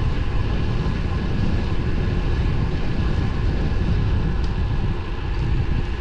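Wind rushing over the microphone of a moving road bike, a steady low rumble with road noise under it.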